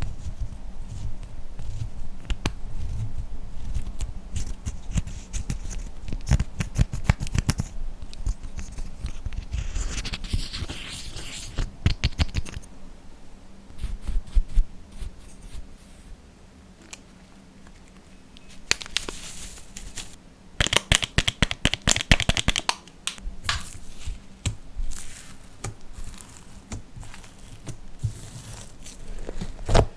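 Slime being kneaded, stretched and pressed by hand, with bursts of sticky clicking and crackling.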